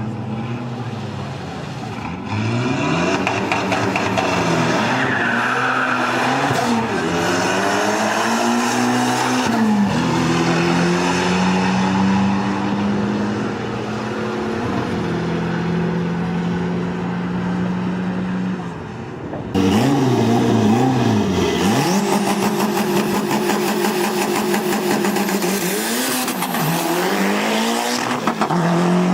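Tuned car engine run hard, its pitch climbing and dropping again and again as it revs and shifts, with stretches held steady at high revs. About two-thirds through it cuts abruptly to a louder stretch of rapid revving.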